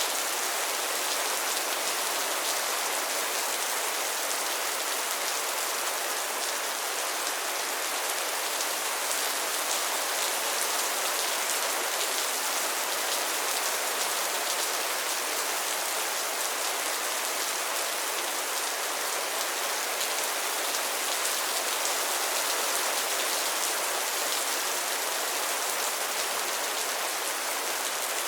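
Steady rain falling on pond water and lily pads, a dense even patter of drops.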